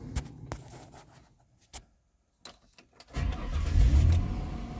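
A few sharp clicks as the running blower fan dies away, then about three seconds in the 1999 Mercury Mountaineer's engine starts, flaring up loudly for a moment before settling into a steady fast idle.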